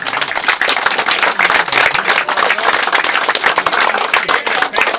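Crowd clapping and applauding, dense overlapping hand claps.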